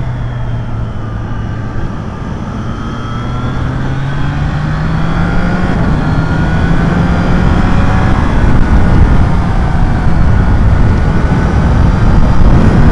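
Motorcycle engine running under way, its pitch climbing steadily through the first half and then holding as the bike accelerates, over a heavy low rush of wind on the microphone.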